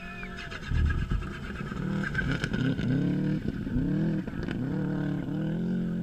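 A rally car's engine revving hard, its pitch climbing and dropping again and again as the driver works the throttle and gears along the stage.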